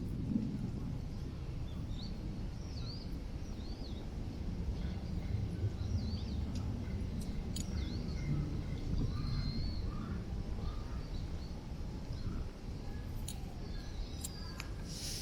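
Strong wind buffeting the microphone as a steady low rumble, with short high bird chirps here and there and a few sharp clicks near the end.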